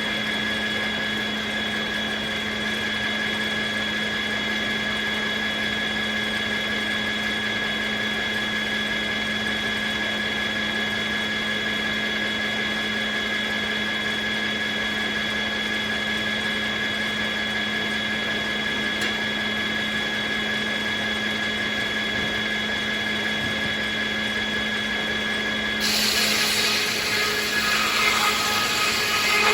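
Circular sawmill running steadily, with a constant hum and a high whine from the spinning blade. Near the end a louder rasping hiss joins in as the blade starts cutting into a willow log.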